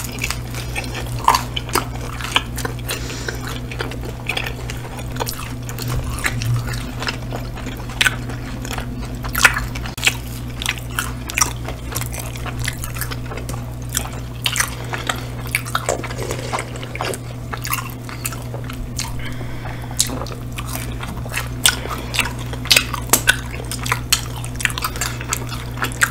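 Close-miked chewing and biting of pizza and chicken wings: irregular wet smacks, crunches and clicks from two people eating, over a steady low hum.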